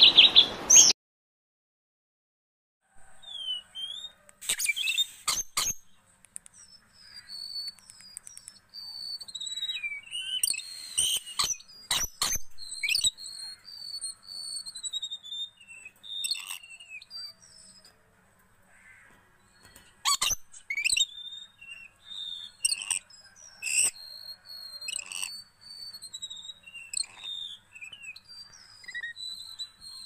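A bird calling in short, high whistled notes, many sliding down in pitch, repeated over and over with sharp clicks scattered among them. In the first second the loud end of a red-whiskered bulbul's song is cut off abruptly, followed by a brief silence.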